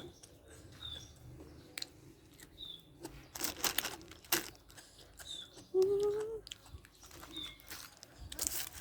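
Food being chewed and crunched with the mouth near the microphone, with a bird's short high chirp repeating every second or two and a brief hummed voice sound about six seconds in.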